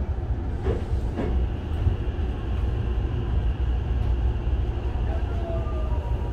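Hankyu 9000 series electric train with Toshiba IGBT-VVVF control, heard from inside the car as it rolls slowly into a station: a steady low running rumble with two wheel clicks about a second in. Near the end the motor's faint whine glides down in pitch as the train slows.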